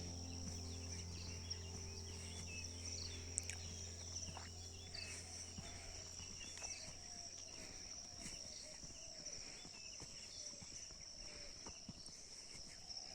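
Forest ambience: a steady high-pitched insect drone with many short bird chirps and calls scattered throughout. A sustained low music chord fades out over the first few seconds.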